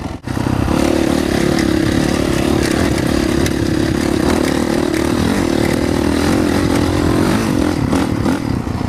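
Honda CRF450R four-stroke single-cylinder motocross bike engine running under way on a dirt track, mostly steady in pitch. It starts abruptly a moment in.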